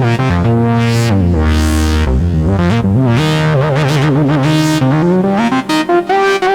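IK Multimedia Uno Synth PRO analog synthesizer playing a factory preset: a bright, buzzy line of notes that glide into one another. Partway through, a held note wobbles in pitch, and the tone keeps brightening and dulling as the filter sweeps.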